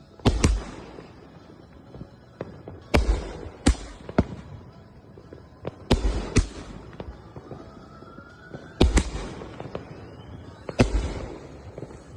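Consumer fireworks going off: five volleys of sharp booms, mostly in close pairs, coming every two to three seconds, with a rising whistle leading into the fourth volley.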